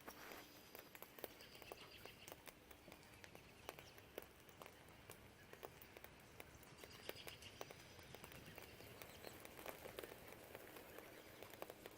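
Quiet rain heard through a window: drops tapping and dripping in scattered, irregular ticks over a soft hiss, with faint birds chirping briefly near the start and about seven seconds in.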